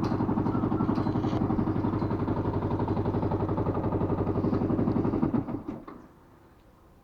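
Single-cylinder motorcycle engine idling with a steady rapid pulse, then switched off about five and a half seconds in, dying away over half a second.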